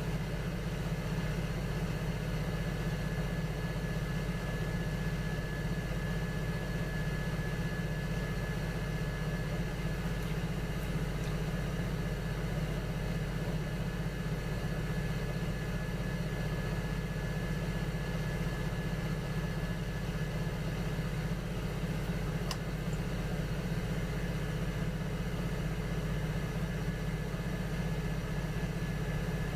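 Electric potter's wheel motor running with a steady hum and a faint whine, with a single faint click about three-quarters of the way through.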